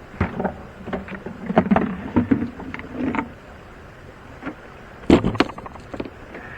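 A bucket being dipped into the river and filled: water splashing and sloshing, with irregular knocks of the bucket against the jon boat. A cluster of louder knocks comes about five seconds in.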